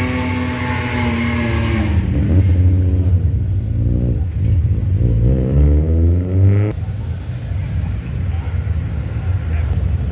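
Car engine revving: a held note sinks at the start, then the pitch climbs hard from about three seconds in and cuts off abruptly near seven seconds, leaving a low exhaust rumble.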